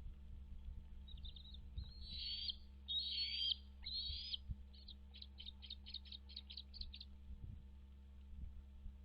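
Bald eagle calling: a few short notes, then three longer harsh calls, then a fast run of short piping notes at about five a second, over a steady low hum.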